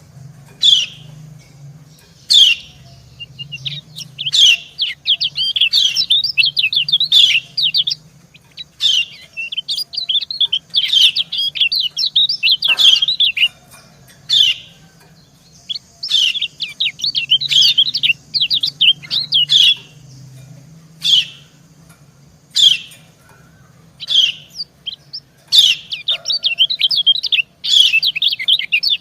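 Yellow white-eyes (kecial kuning) calling: sharp single 'ciak' call notes answered by rapid twittering song phrases a few seconds long. These are female calls alternating with a male's song.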